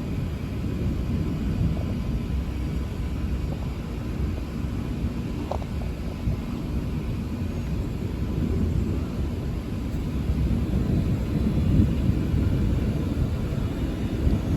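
Low, continuous rumble of thunder rolling during a severe thunderstorm, swelling a little in the latter half.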